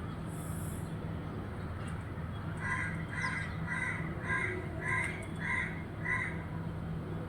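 A crow cawing seven times in a steady series, about two caws a second, over a steady low hum.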